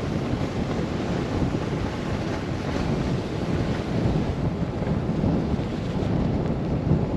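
Blizzard wind gusting against the microphone: a deep, steady rush that swells and eases slightly, with no engine tone heard.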